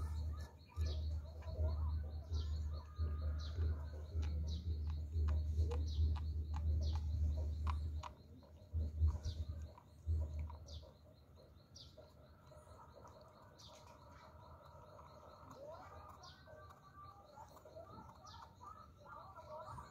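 Small birds chirping in short, repeated calls, over a low rumble that stops about eleven seconds in, with a few light clicks.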